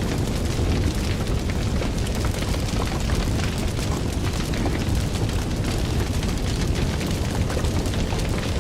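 Fire crackling, with frequent small pops and snaps over a steady low rumble of the flames.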